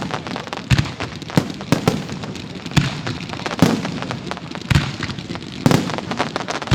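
Fireworks display: heavy booms roughly once a second, with a dense rapid crackle of smaller pops in between.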